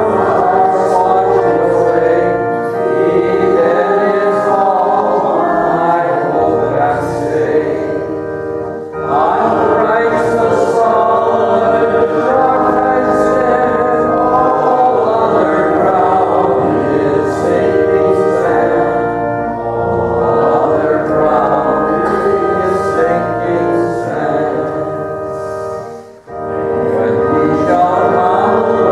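Congregation singing a hymn in unison with instrumental accompaniment, with a short break between phrases about nine seconds in and again near the end.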